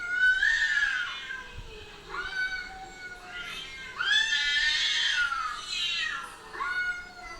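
Cats yowling in a run of long, wavering, drawn-out calls, about five of them, the longest lasting some two seconds: the caterwauling of a cat fight.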